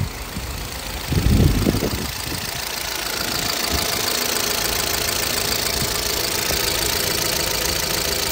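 A 2012 Chevrolet Cruze LTZ petrol engine running with a knock, sounding no different from a farm tractor, with a louder low rumble about a second in before it settles into a steady run. The knock persists although the cylinder head has already been replaced.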